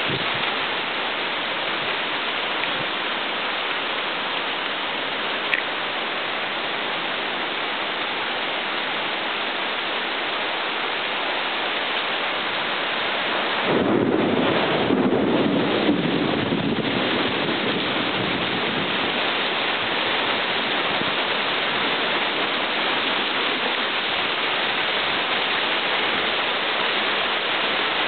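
Heavy rain falling steadily in a thunderstorm, with a rumble of thunder about halfway through that lasts a few seconds.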